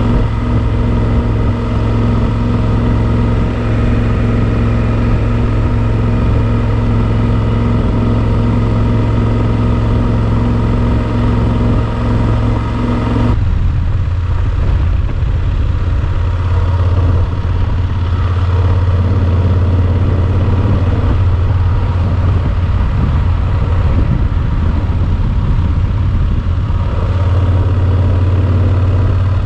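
Yamaha Super Ténéré XT1200Z's parallel-twin engine running steadily under way. About 13 seconds in the sound changes suddenly to a lower, rougher engine note.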